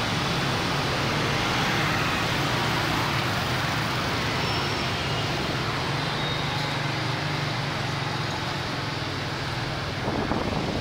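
Dense motorbike traffic: many small motorcycle engines running together with road noise, heard from a motorbike riding among them. The sound is steady, with a rougher, gustier rumble near the end.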